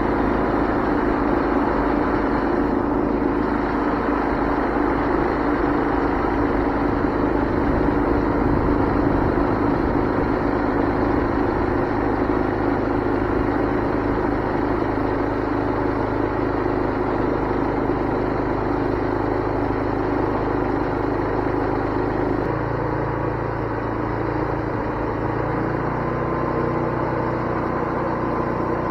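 Wood-Mizer LT20 band sawmill's engine running steadily; its note shifts about 22 seconds in.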